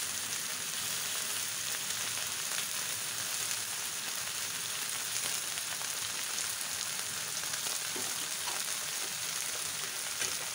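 Yellow noodles and sauce frying in a hot wok, a steady sizzle, with a couple of faint taps near the end.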